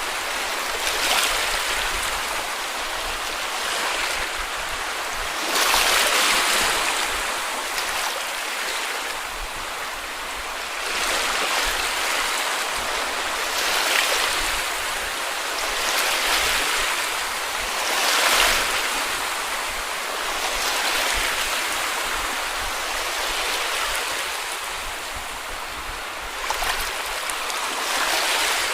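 Small sea waves breaking and washing up a beach, a steady wash of surf that swells with each wave every two seconds or so.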